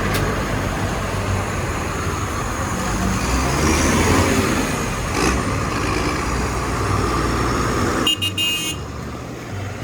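Tractor engines running as the procession drives past. A short horn toot sounds about eight seconds in, after which the engine noise drops away.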